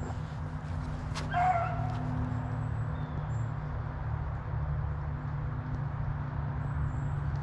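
A rabbit dog gives a single bay about a second in while the pack runs a rabbit. A steady low hum runs underneath.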